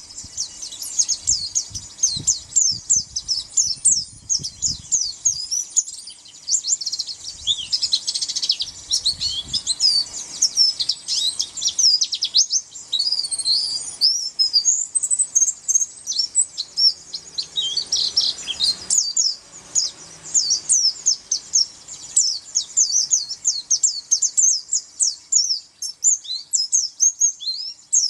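A pleci (white-eye) singing a continuous, rapid, high-pitched twittering song of quick chirps and short sweeping notes. Low bumps sound now and then in the first half.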